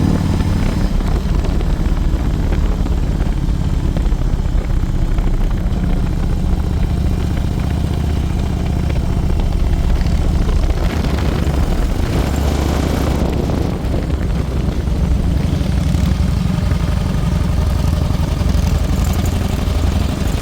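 Motorcycle engine running steadily under way, its low drone under a constant rushing noise.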